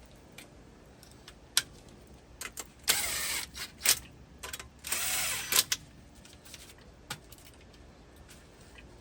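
Two short hisses of aerosol lubricant spray, about three and five seconds in, among scattered clicks and clinks of metal parts being handled.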